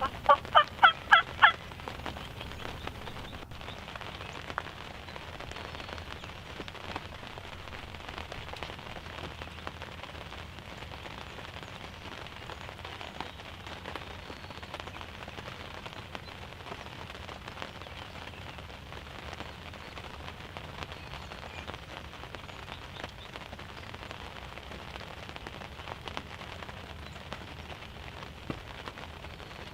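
Wild turkey gobbler gobbling once: a quick rattling run of about seven notes in the first second and a half. After it there is only a steady faint hiss with scattered light ticks.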